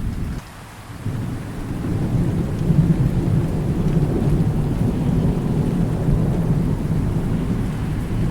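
Steady rain with rolling thunder. The sound drops out briefly about half a second in, then a low rumble of thunder builds and rolls on under the rain.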